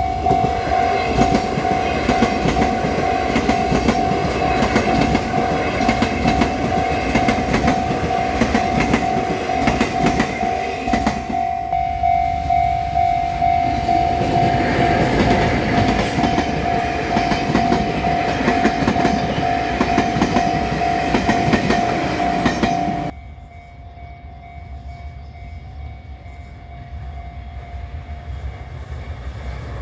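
Level-crossing warning bell ringing steadily over the rumble and wheel clatter of trains passing over the crossing: first an electric multiple unit, then an orange diesel locomotive hauling passenger coaches. About 23 seconds in the sound cuts to a quieter, more distant train running by.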